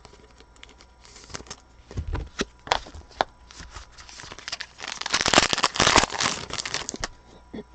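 Trading-card pack wrapper crinkling and tearing, with sharp clicks and snaps as cards are handled; the densest, loudest crinkling comes about five seconds in.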